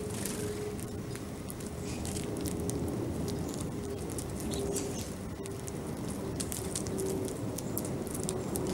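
Small birds at a backyard feeder: many short, sharp high ticks and chirps scattered over a steady low rumble of outdoor background noise.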